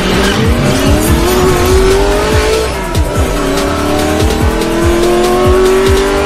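Sound effect of a race car engine accelerating: its pitch climbs, drops about three seconds in as it shifts gear, then climbs again. Under it runs electronic music with a steady thumping beat.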